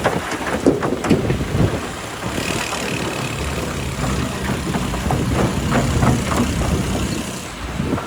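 Heavy diesel engine of an excavator running steadily, with irregular knocks and clatter throughout, as of rock and steel striking. A brief higher whine sounds about two seconds in.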